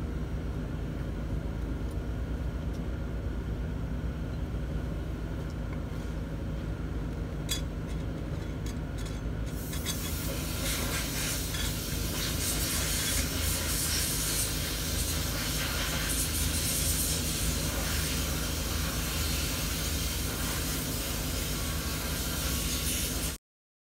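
Forklift diesel engine running steadily. About ten seconds in, a hiss comes in over it. The sound cuts off suddenly near the end.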